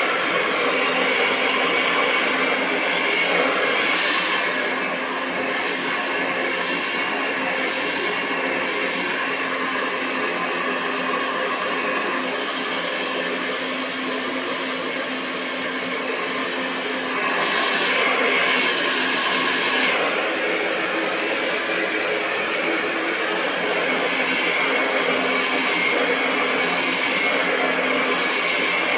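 Hair dryer blowing continuously: a steady rush of air over a low motor hum. The level eases slightly about five seconds in and picks up again a little past halfway.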